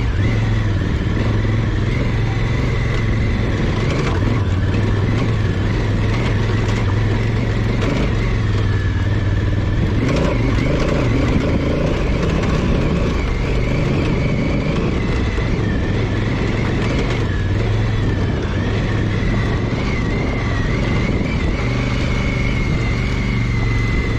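Honda Africa Twin CRF1000L's parallel-twin engine running steadily under load as the motorcycle climbs a steep dirt trail, over a continuous rough noise.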